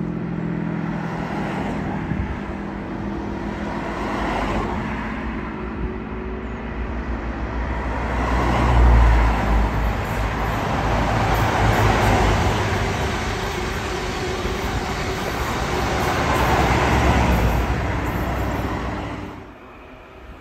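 An HST with two Class 43 diesel power cars (MTU engines) passing at speed, engines running and wheels rumbling on the rails. The sound peaks about nine seconds in as the leading power car goes by and swells again as the rear power car passes, then drops away sharply near the end.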